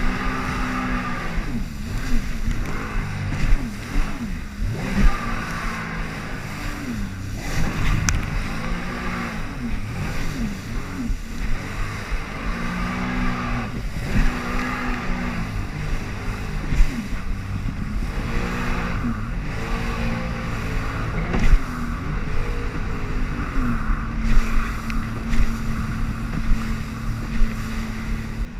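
Jet ski engine running hard, its pitch rising and falling again and again as the throttle is worked through the waves. About three-quarters of the way through it settles to a steady pitch, then drops off at the very end.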